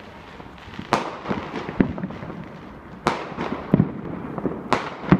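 Fireworks going off: a series of sharp bangs, the loudest about a second in, about three seconds in and twice near the end, with smaller pops and crackling between them.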